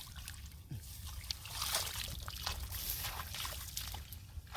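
Shallow water sloshing and trickling, with irregular small splashes.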